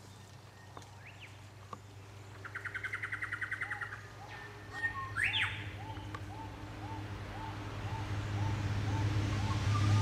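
Birds calling in forest undergrowth. A fast rattling trill comes about two and a half seconds in, then a quick upward-sweeping note, then a steady run of short repeated notes, about two a second, to the end.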